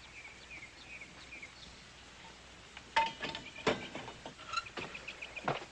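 Faint birds chirping in short repeated calls. From about three seconds in there are several sharp knocks.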